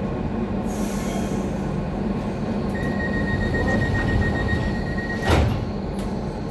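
Docklands Light Railway train running along the track, a steady rumble heard from on board. About three seconds in a thin high-pitched tone sets in and holds for a couple of seconds, ending with a single sharp knock, the loudest sound.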